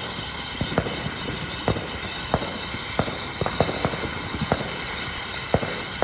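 Irregular sharp cracks and pops, about two a second, over a steady background rumble.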